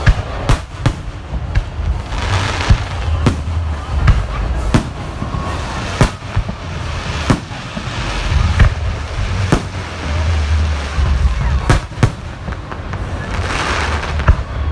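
Fireworks display: a string of sharp aerial shell bangs, about one a second, with swells of crackle about two seconds in and again near the end, over a low rumble.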